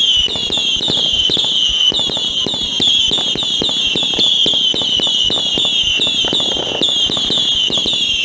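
Whistling firework battery (cake) firing a rapid, steady string of whistling shots, about three or four a second, each a falling whistle that overlaps the next, with pops and crackle underneath.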